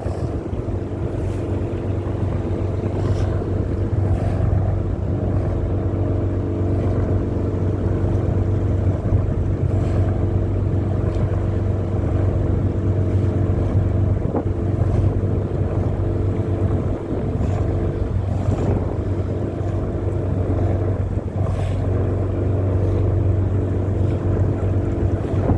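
A steady motor drone holding one pitch throughout, with wind buffeting the microphone.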